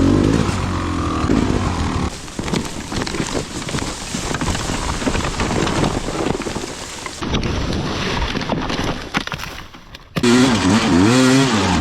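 Dirt bike engine running at high revs, then a long stretch of rough noise with many knocks and clatters. Near the end, after a sudden change, a dirt bike engine revs up and down.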